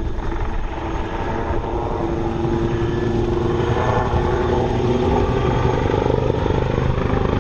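Royal Navy AW159 Wildcat helicopter in a flying display: twin-turboshaft engines running and the rotor blades chopping in a fast, steady beat, with a steady engine tone that shifts slightly in pitch as it manoeuvres.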